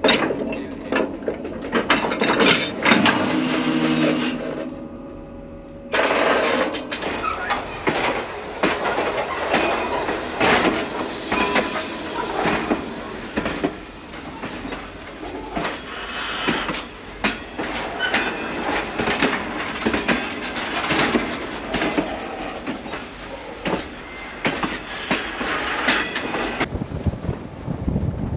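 Slow-moving freight train wagons clanking and rattling on the rails, with irregular metallic knocks.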